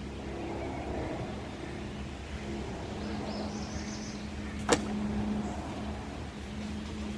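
A steady low motor hum that stops and starts, with one sharp click about two-thirds of the way through.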